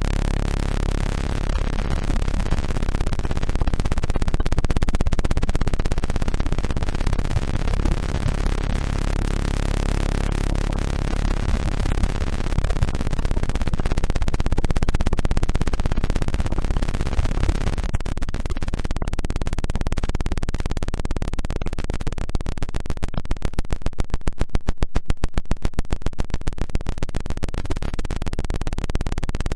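Electronically generated 'healing frequency' tones: a dense, steady mix of many synthesized tones and hiss. About three-quarters of the way through it throbs in fast pulses for several seconds.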